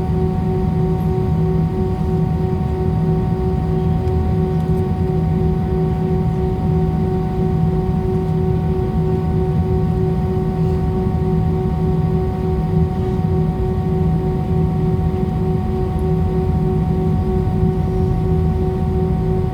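Jet airliner cabin noise while taxiing: a steady low rumble with an even whine at several fixed pitches running through it, unchanging in level.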